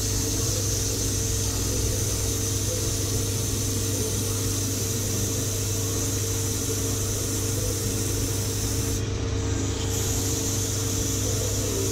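Ammco 4000 brake lathe running steadily while skimming a front brake rotor: an even motor hum with a steady hiss over it.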